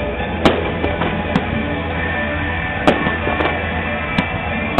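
Fireworks going off in about five sharp bangs spread across a few seconds, over steady accompanying music.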